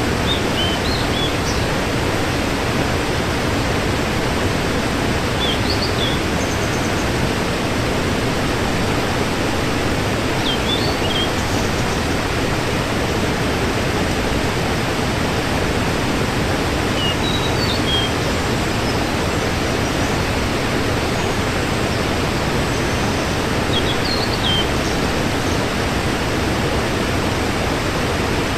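Waterfall rushing steadily, an even roar of falling water, with a few short high chirps every several seconds.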